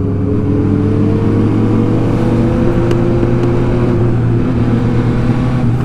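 MV Agusta Superveloce's three-cylinder engine running steadily while the bike cruises, its pitch rising slightly and settling back in the middle.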